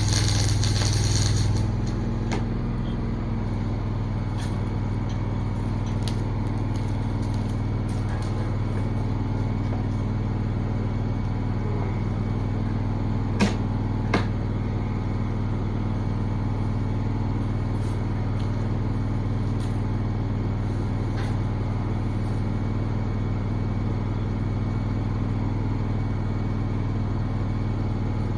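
An engine running steadily at a constant speed, with a louder hiss over it at the start and two sharp metallic clicks about a second apart midway.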